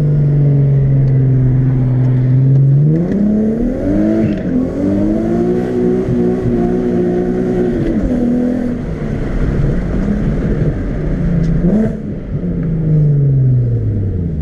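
Nissan 370Z's 3.7-litre V6 engine under hard acceleration during a drift: running steadily at first, revs climbing sharply about three seconds in and held high for several seconds, then dropping, with a brief blip of revs and a falling pitch near the end.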